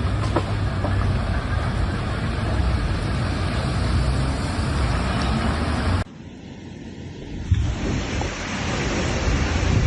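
Heavy rain pouring down with gusting wind, the wind rumbling on the microphone. About six seconds in it drops abruptly to a quieter hiss, then builds back up.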